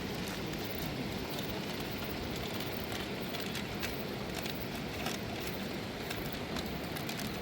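Campfire crackling, with many scattered sharp pops and snaps over a steady rushing noise.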